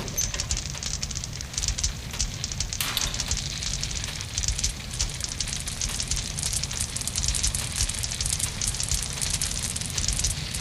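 Wood fire in an open fireplace crackling, with frequent irregular pops over a steady low rumble of the flames.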